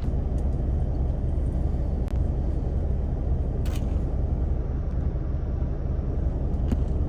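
Truck's diesel engine running steadily, a low even rumble heard from inside the cab, with a couple of faint clicks.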